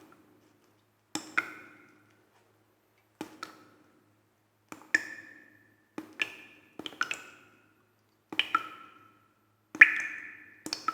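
Campfire wood crackling: sharp pops, often two or three close together, every second or two, each with a brief ringing tail. The loudest pop comes near the end.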